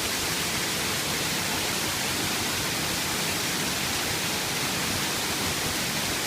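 Waterfall pouring down in a steady, even rush of falling water.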